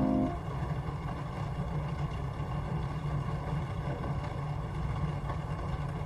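Steady rain with a deep low rumble and faint patter, after a held organ chord stops just after the start.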